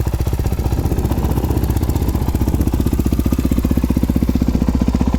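Suzuki DR-Z400's single-cylinder four-stroke engine idling steadily through an FMF PowerCore 4 full exhaust, with a fast, even exhaust pulse.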